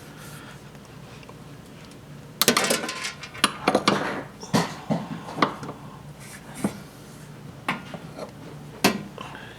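Metal parts and tools clattering while working on a washing machine's motor and belt: a quick run of clanks and rattles about two and a half seconds in, then single sharp metallic clinks about once a second.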